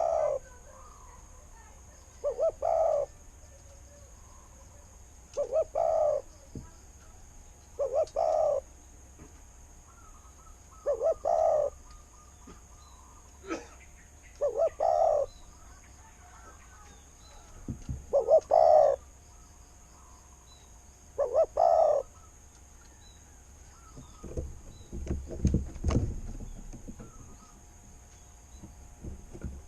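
Spotted dove cooing: a short multi-note coo phrase about every three seconds, eight times in all. Near the end, low rumbling thumps take over.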